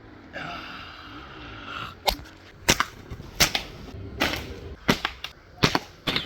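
A steady pitched tone for about two seconds, then a quick series of about seven sharp cracks, roughly one every two-thirds of a second.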